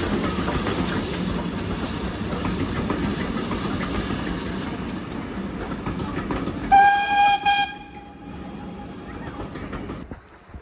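A train running on the rails with a steady rumble and clickety-clack, then about seven seconds in a single high-pitched whistle blast of about a second, after which the running noise dies away.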